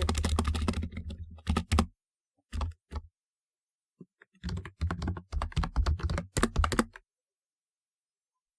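Typewriter-style keyboard being typed on in quick runs of key clicks with short pauses between, stopping about seven seconds in.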